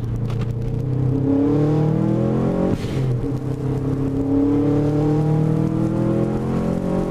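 Subaru flat-four engine accelerating, its pitch climbing. About 2.7 s in it drops suddenly at a quick upshift, then climbs steadily through the revs again.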